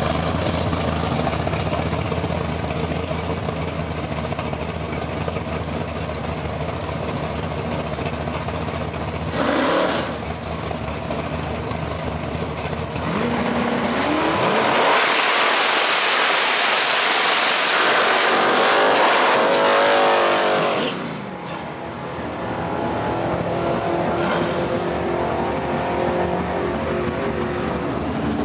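Ford Lightning's Chevrolet 6.1 V8 engine idling, with a short rev about nine seconds in. It then accelerates hard with rising pitch for about seven seconds before cutting back suddenly, and settles to a steady run.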